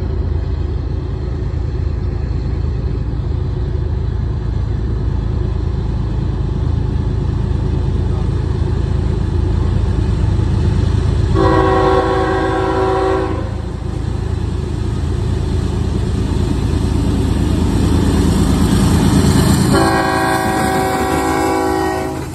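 Norfolk Southern diesel freight locomotives approaching and passing close by with a steady low engine rumble, sounding a several-note air horn twice: one blast of about two seconds some eleven seconds in, and a second near the end.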